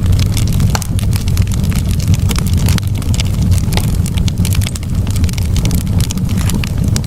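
Campfire burning: wood crackling and popping in frequent sharp snaps over a steady low rumble.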